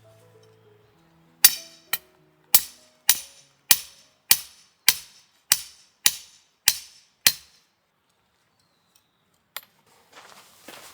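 About eleven sharp knocks at an even pace, a little under two a second, each ringing briefly, with soft background music at first; a single click follows a couple of seconds later.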